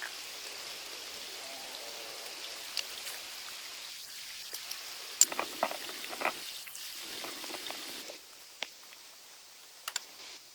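Steady hiss of water, with a few clicks and knocks near the middle. The hiss drops away sharply about eight seconds in.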